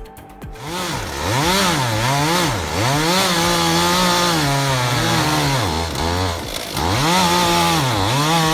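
Chainsaw engine revving up and down over and over, its pitch rising and dipping about once a second, with a steadier stretch at high revs in the middle. It starts about half a second in.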